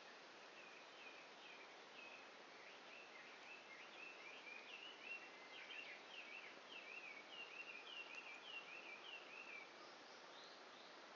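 A songbird singing a long run of quick, repeated chirping notes, faint over a steady outdoor hiss, louder in the middle and stopping near the end.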